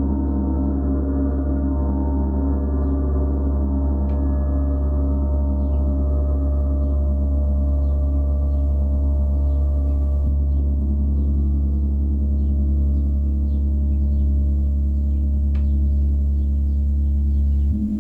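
A gong played in a sustained wash: a strong deep hum under many overlapping ringing tones, holding steady, with a fresh stroke near the end.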